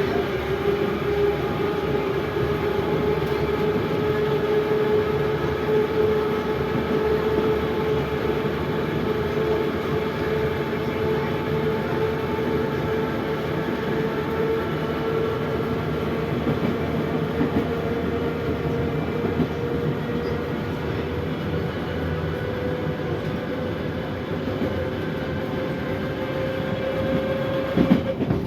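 81-717/714 metro train running between stations: a steady traction-motor whine that climbs slowly in pitch, over the rumble of the wheels on the rails. A few knocks come near the end.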